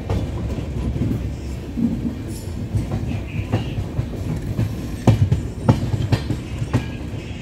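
Passenger train running, heard from on board: a steady low rumble of the wheels on the rails. Sharp clacks as the wheels cross rail joints come several times in the second half.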